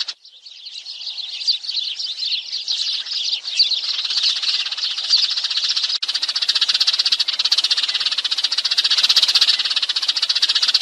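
A flock of sparrows chirping densely and continuously, played as a lure call for trapping. There is an abrupt join about six seconds in, where the chirping gets denser and louder.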